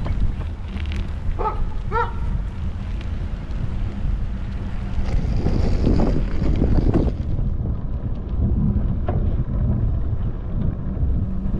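Wind rumbling on the microphone of a camera carried on a moving bicycle, a steady low rumble, with two short chirps about a second and a half to two seconds in.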